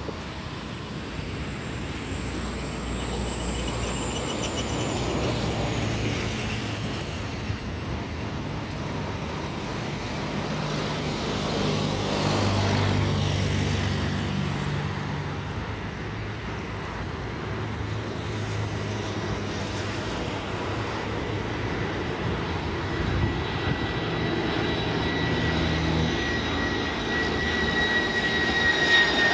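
Boeing 747-400ERF freighter on final approach, the whine of its four turbofan engines growing louder near the end, over a steady rumble of passing road traffic.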